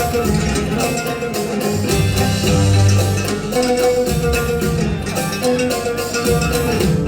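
Solo oud playing an instrumental piece: a continuous run of plucked notes.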